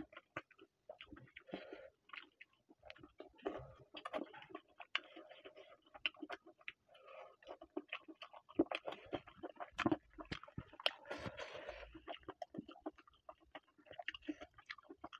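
A person chewing and smacking on mouthfuls of rice and chicken curry eaten by hand, heard close up as an irregular run of short clicks and smacks.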